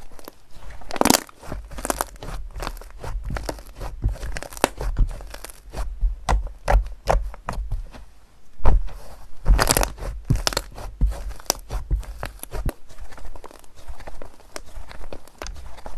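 Slime being squeezed and poked by hand, giving a run of irregular sticky crackles and pops, with louder clusters about a second in and again around nine to ten seconds.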